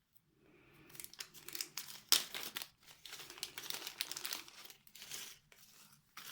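Plastic bag of small craft embellishments crinkling and rustling as it is handled, in irregular crackles that are loudest about two seconds in.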